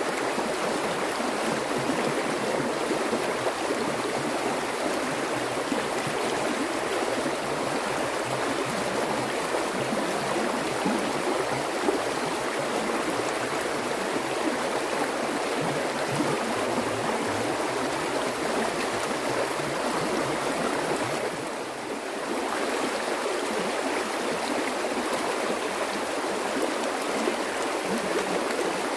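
Flowing water running steadily, dipping briefly softer about three quarters of the way through.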